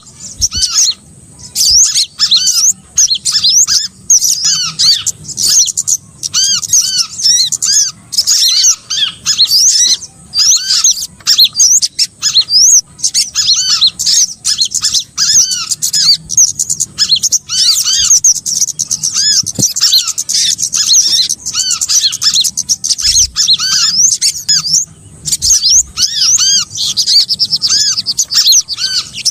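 Bird-lure recording of small songbirds calling: a dense, loud, near-continuous run of high, short arched chirps and twitters, packed close together with only brief pauses.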